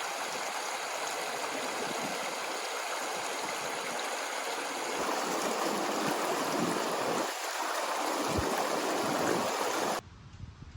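Flowing water, a steady rush that cuts off abruptly near the end.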